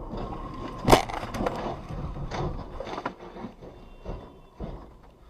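Car collision: one loud impact about a second in, followed by scattered crunching and clattering knocks over the next few seconds.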